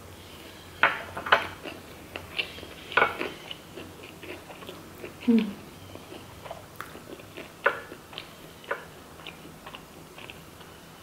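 Close-miked chewing of a vegetarian sushi roll with mango and carrot: irregular wet mouth smacks and clicks, with a brief hum of the voice about five seconds in.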